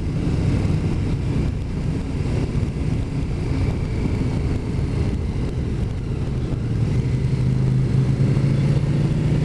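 Motorcycle engine running steadily at cruising speed with a haze of road and wind noise; the engine note strengthens slightly near the end.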